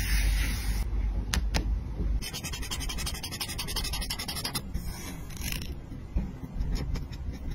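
Scraping and scratching of paper and stickers being handled on a journal page, with a couple of sharp clicks, then a fast, even ratcheting rasp for about two seconds in the middle.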